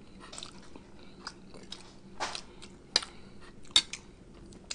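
Close-miked mouth sounds of a man chewing lasagna: scattered wet smacks and clicks of lips and tongue, the sharpest two about three and four seconds in.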